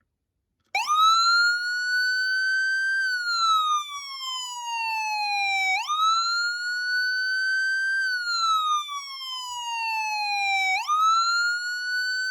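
Whelen 295SLSA1 electronic siren sounding its wail tone. It starts under a second in, then slowly rises and falls in pitch about every five seconds, two full cycles and the start of a third.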